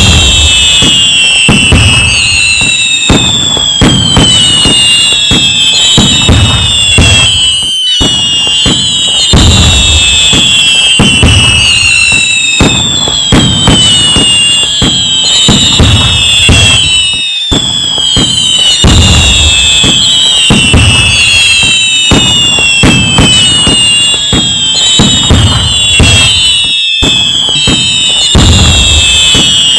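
Loud fireworks going off continuously: many falling whistles layered over low booms and crackling. The same stretch repeats about every nine and a half seconds, each time after a brief dropout.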